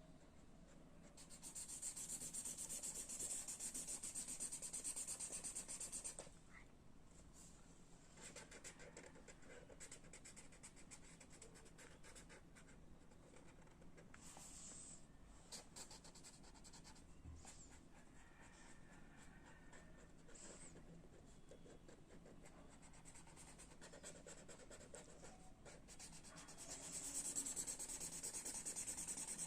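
A drawing tool scratching on paper, faint. There is rapid back-and-forth scribbling from about a second in for some five seconds, then lighter separate strokes and small taps, then rapid scribbling again near the end.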